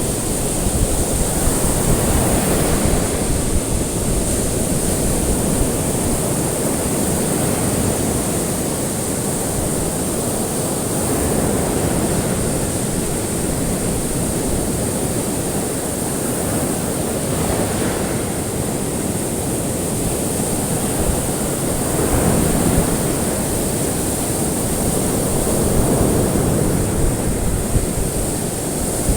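Ocean waves washing in and out on a shore, a continuous surf with a swell every few seconds, over a steady high hiss.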